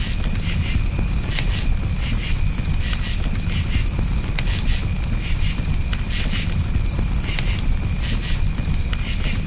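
Crickets chirping in a steady, high, pulsing trill over the low rumble and irregular sharp pops and crackles of a campfire.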